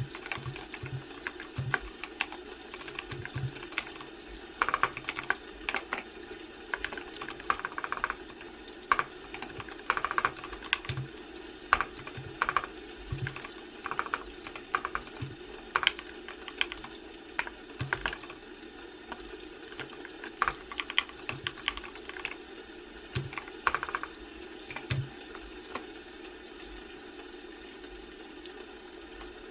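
Typing on a computer keyboard: irregular clicking keystrokes in uneven runs with brief pauses, thinning out near the end, over a steady low background hum.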